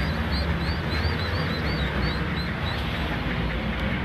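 Small birds peeping in a rapid series of short high calls, about four a second, stopping about three seconds in. Under them runs a steady low outdoor rumble.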